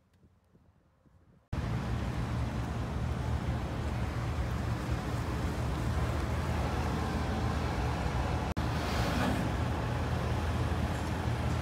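BMW R1250RS boxer twin engine running steadily under way, a low drone with road and wind noise over it. It starts abruptly after a second and a half of faint sound and drops out for an instant past the middle.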